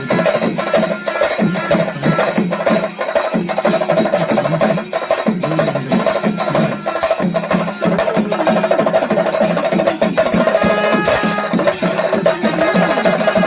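A Kerala temple-festival percussion ensemble (melam) playing: dense, rapid drumming over a steady held tone. Higher pitched wind-instrument notes join about eleven seconds in.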